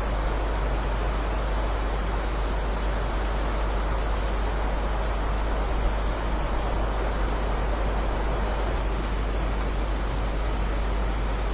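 Steady heavy rain, a dense even hiss with a strong deep rumble underneath.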